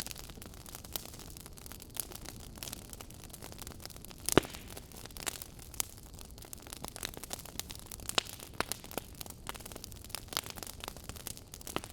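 Wood fire crackling in a fireplace: irregular sharp snaps and ticks over a low steady rumble, with one loud pop about four seconds in.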